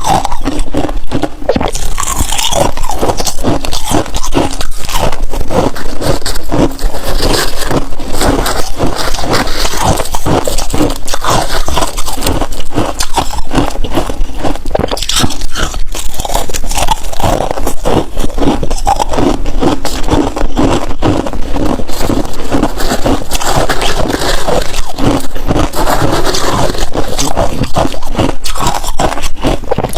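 Freezer frost being bitten and chewed, a dense run of crisp crunching and crackling.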